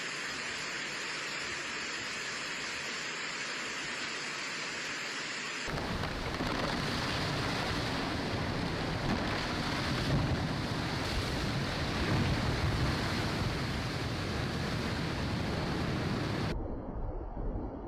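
Flash-flood rain and rushing water: a steady hiss, joined about six seconds in by a louder, deeper rush that cuts off suddenly near the end.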